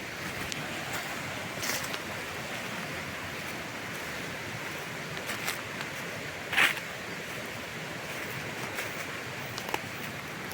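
Steady outdoor rushing noise, with a few brief sharp rustles or knocks about two, seven and ten seconds in.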